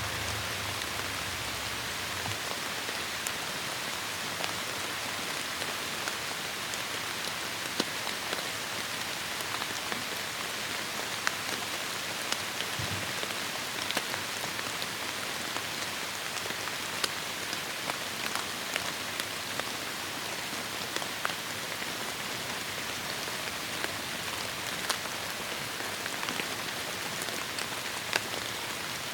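Heavy rain falling in a forest: a steady dense hiss of rainfall with many individual drops striking close by as sharp taps.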